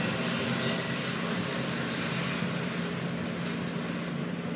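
Train rolling along steel rails, with a high-pitched wheel squeal starting about half a second in and dying away after a second or so; the rumble then slowly gets quieter.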